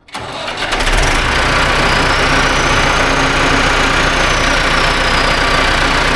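Massey Ferguson 6150 tractor's diesel engine cranked and started, catching within about a second and then running steadily. It is started right after an oil and filter change to fill the new oil filter. The sound cuts off suddenly at the end.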